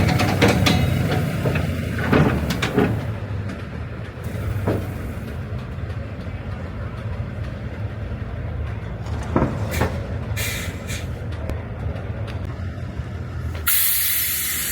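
Truck engine running steadily at a low idle with a few knocks and clanks, then a sudden loud burst of compressed-air hiss near the end, like an air brake or air valve venting.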